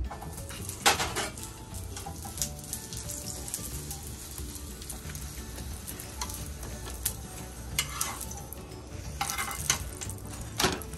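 Ghee sizzling under a stuffed paratha frying in a nonstick pan, with a steel spatula scraping and tapping against the pan several times, the sharpest tap about a second in.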